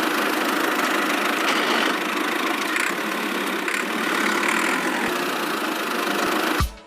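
Small motor of a DIY miniature tractor machine running steadily, cutting off abruptly near the end.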